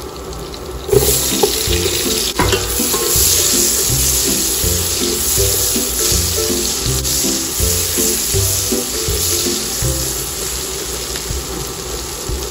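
Sliced onions dropped into hot fat in an enamel pot start sizzling about a second in, a dense frying hiss that eases slowly as they are stirred, with one clink of the spoon against the pot. Background music plays underneath.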